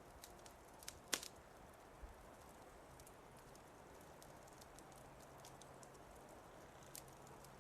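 Wood fire crackling with irregular small pops and one louder pop about a second in, over a faint low steady rumble.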